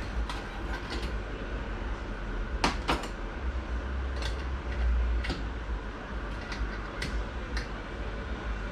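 Clutch plates and steel plates being set into a transmission clutch drum: light metallic clicks and clinks at irregular intervals, a sharper pair about three seconds in, over a steady low hum.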